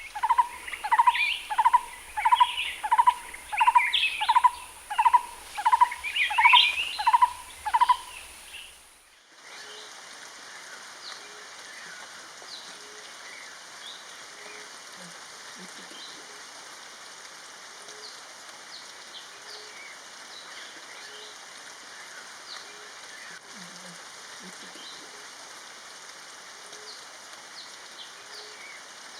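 Green-eared barbet calling: a loud series of about eleven evenly spaced ringing notes, roughly one every 0.7 s. About nine seconds in it cuts to a steady hiss of forest ambience, with faint regularly repeated low notes and scattered thin high chirps from other birds.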